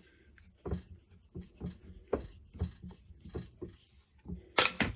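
Light clicks and scrapes of hand tools working on the small metal parts of a car's air suspension compressor, about two a second, then a louder metallic clatter near the end.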